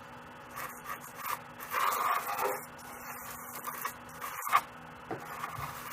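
Dry pastel stick rubbed sideways across paper in long strokes, a soft scratchy rubbing that comes and goes, with a short sharp tap about four and a half seconds in.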